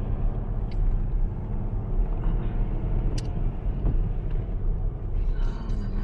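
Steady low rumble of a car being driven, heard from inside the cabin, with a couple of faint clicks.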